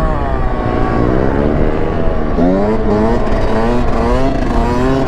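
Motorcycle engine revving up and down through the throttle, its pitch climbing sharply about two and a half seconds in before easing back.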